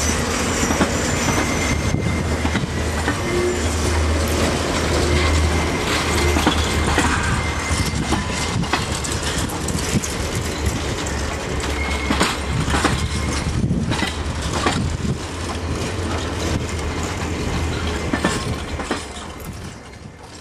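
Alaska Railroad passenger cars rolling past close by, their steel wheels clacking over the rail joints with a few brief squeals. The sound fades away near the end as the last car goes by.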